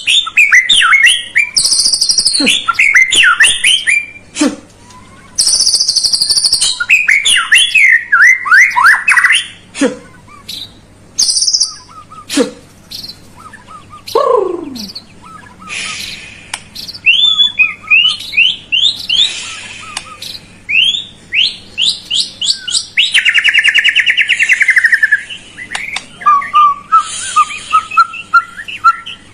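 Loud, varied songbird song of rich whistles, rapid rattling trills and sweeping notes in quick phrases, played as a pancingan, a lure recording meant to prompt a quiet murai batu (white-rumped shama) to sing.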